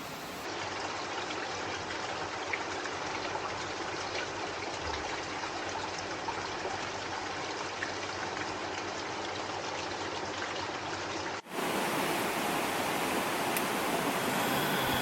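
Steady rushing of flowing water. It changes abruptly twice, and gets louder and brighter about three-quarters of the way through.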